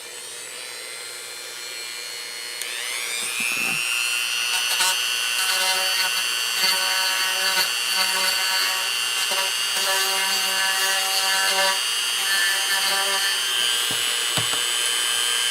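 Small variable-speed rotary drill running, its whine rising in pitch about two and a half seconds in and then holding steady while the bit grinds a recess into a small wood piece.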